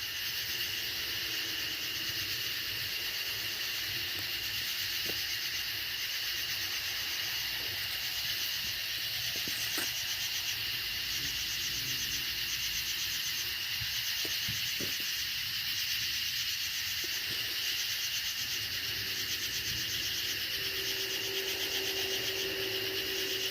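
Night chorus of katydids in full voice: a dense, steady, high buzzing with a fine pulsing rasp. A faint low steady hum joins about two-thirds of the way through.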